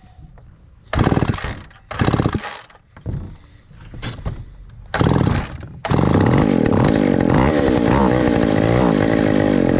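Two-stroke chainsaw being pull-started: several brief bursts of engine noise about a second apart, then it catches about six seconds in and keeps running steadily.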